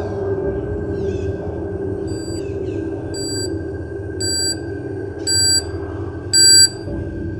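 Five short electronic countdown beeps about a second apart, the last three getting louder, over a steady ambient music drone, marking the end of the timed breath hold.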